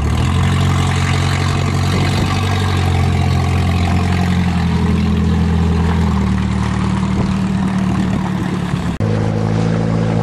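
Car engine running at a steady, low speed close by, heard from a slowly moving vehicle. It drops out for an instant about nine seconds in, then carries on at a slightly different pitch.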